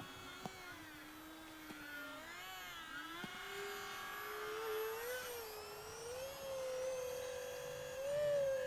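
Twin electric ducted fans of an RC Darkstar jet in flight, cruising: a thin whine whose pitch wavers up and down and climbs gradually over the few seconds.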